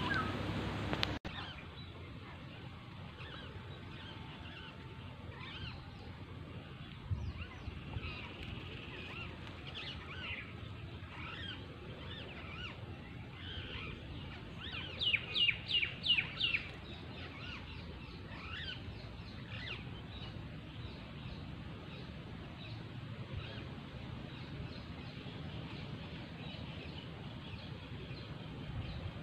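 Wild birds calling: scattered short chirps throughout, and a quick run of about six loud, falling calls about halfway through, over a faint steady outdoor hiss.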